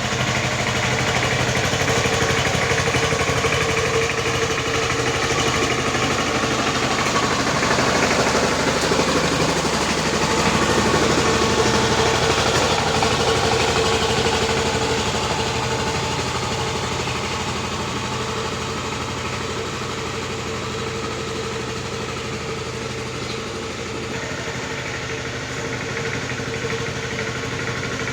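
Tractor engine running steadily, a little louder around the middle and easing off somewhat toward the end.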